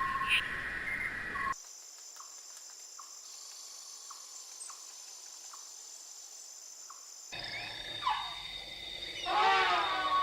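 Animal calls in several cut-together clips: a steady, high-pitched trill for about six seconds, then rapid chirping calls that slide up and down in pitch near the end.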